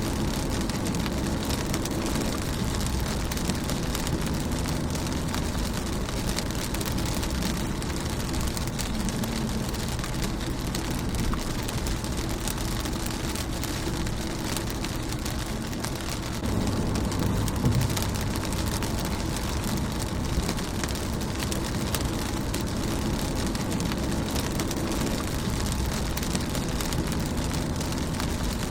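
Rain falling on a car's windshield: a steady patter of many small drops, swelling slightly for a moment a little past halfway.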